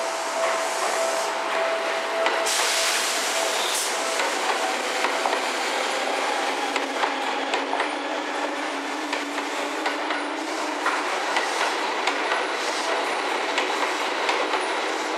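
Seibu 10000 series New Red Arrow electric limited express train pulling slowly into the platform. Its wheels click over the rail joints above a steady rolling noise, and a low hum fades out about halfway through as the train slows.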